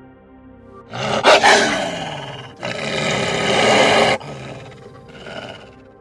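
Gray wolf giving harsh, rough vocalizations: two loud calls of about a second and a half each, the second cutting off suddenly, then a fainter short one near the end. Soft background music plays underneath.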